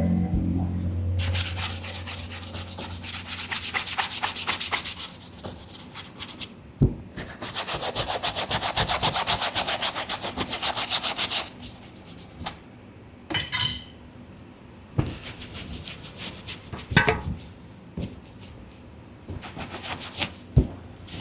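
A brush scrubbing a sneaker in quick, rapid strokes, in two long bouts, then a quieter stretch with a few light knocks.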